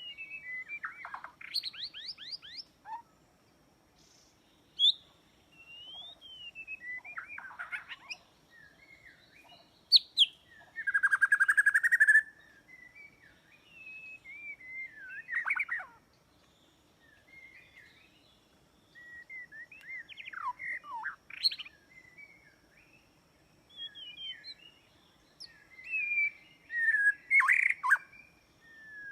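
White-rumped shama (murai batu) singing: a run of varied whistled phrases, quick up-and-down sweeps and trills, each separated by short pauses, with a louder, harsh buzzing phrase about a third of the way through.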